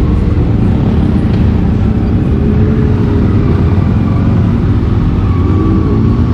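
Yamaha R15 V3's single-cylinder engine running steadily while the motorcycle is ridden along, under heavy wind rush on the mic, with slight rises and falls in engine pitch.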